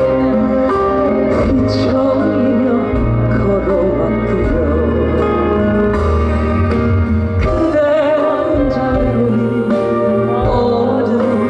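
Live concert music: a male singer sings a slow song over a full band with steady bass, holding notes with vibrato about two thirds of the way through.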